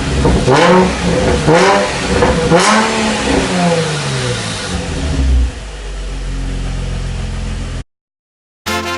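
Nissan Fairlady Z33's 3.5-litre V6 being revved in several quick throttle blips, the exhaust note rising and falling each time, then dropping back to a steady idle before cutting off suddenly. It breathes through an equal-length Maximum Works exhaust manifold, Fujitsubo Y-pipe and Sakuram muffler, which the owner says give a smoother, more connected sound and quicker revving.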